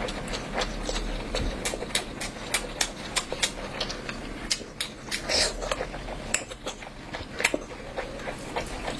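Close-up eating sounds: wet chewing and mouth smacks, heard as irregular sharp clicks about one or two a second, over a steady low hum.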